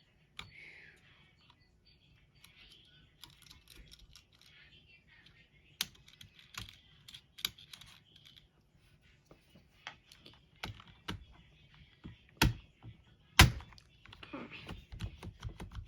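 Computer keyboard keys and spacebar pressed irregularly, sparse clicks with two much louder clacks late on. The spacebar has just been lubricated and refitted.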